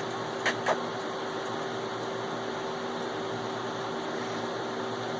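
Steady mechanical room hum with two quick clicks about half a second in.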